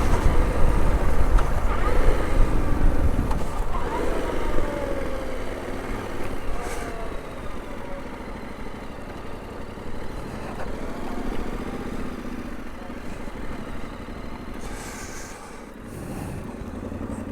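Motorcycle riding and slowing down, the engine note falling and the low rumble easing over the first few seconds, then a quieter steady running sound.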